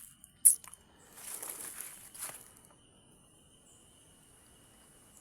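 A sharp snap about half a second in and a couple of seconds of rustling, then the faint, steady high drone of insects in the bush.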